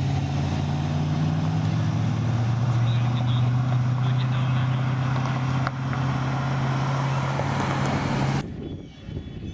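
Classic car engine running as the car drives slowly past, a steady low drone that shifts slightly in pitch about two seconds in and stops abruptly near the end.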